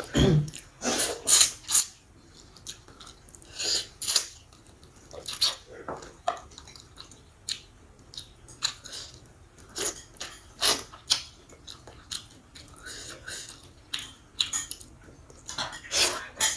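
A person chewing mouthfuls of chicken from a bowl of chicken and red-bean soup, in short, irregular bursts of mouth noise about a second apart.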